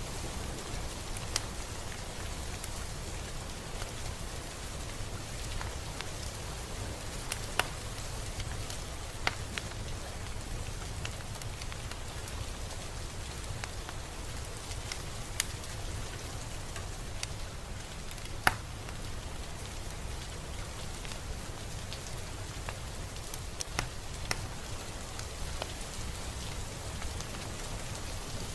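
Steady rain: an even hiss with a low rumble beneath it, and single drops striking sharply now and then.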